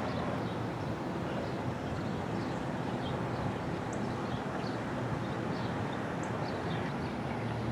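Distant thunder rumbling in a long, steady roll.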